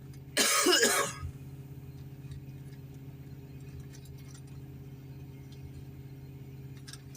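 Steady low hum of a 20-tonne Doosan excavator's diesel engine running, interrupted about half a second in by one loud cough lasting under a second.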